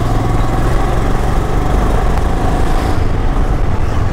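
Royal Enfield Himalayan's 411 cc single-cylinder engine running at low road speed, a steady, even beat of firing pulses.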